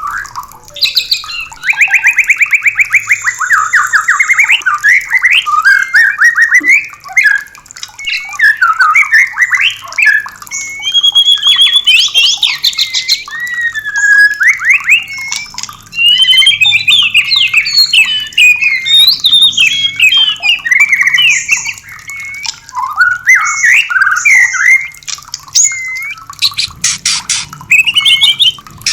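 White-rumped shama singing continuously: a fast run of repeated trilled notes, then a long varied series of loud whistles, slurs and chattering phrases, with a burst of rapid dry clicking notes near the end.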